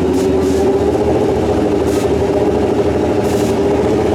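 Drag-racing motorcycle engine idling at a steady, unchanging pitch, with a few short hissing bursts now and then.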